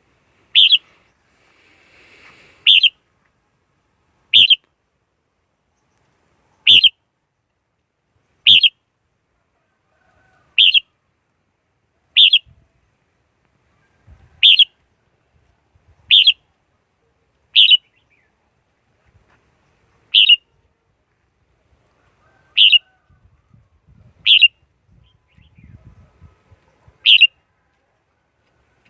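Red-whiskered bulbul giving short, sharp call notes, one about every two seconds, repeated over and over. It is a lure call recording used to draw wild bulbuls in to a trap.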